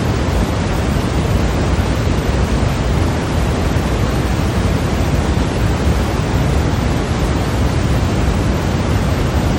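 Steady generated white noise for sleep: a constant, even rushing hiss with more weight in the low end, unchanging throughout.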